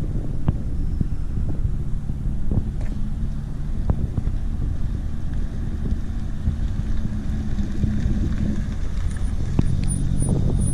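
Chevrolet Corvette's V8 engine running as the car is driven, holding steady revs, with the engine note shifting lower near the end; a few light knocks.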